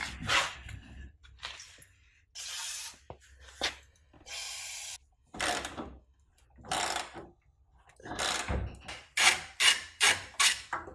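Hand tools at work on a BMW E30's underside during fuel-tank removal: scraping and ratcheting strokes, two steady hisses of about a second each, and a quick run of strokes near the end.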